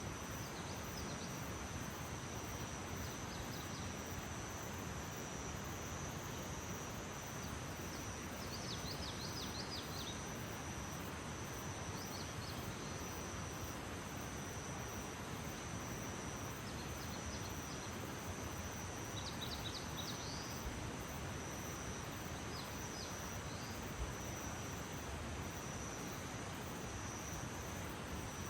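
Early-morning outdoor ambience: a steady, high insect trill over an even background hiss, with small birds giving short bursts of quick chirps every few seconds.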